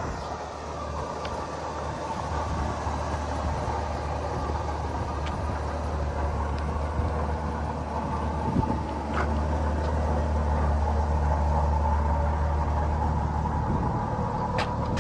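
Engine of a 1984 Ford F-150 pickup running with a steady low drone, a little louder about nine seconds in, with a few light clicks.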